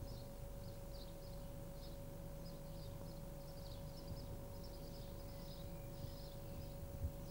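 Small birds chirping in short, irregular repeated notes over a faint steady hum and low rumble, with a brief soft knock near the end.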